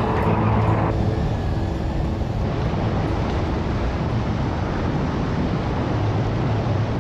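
A vehicle on the move: a steady low engine hum under road and tyre noise.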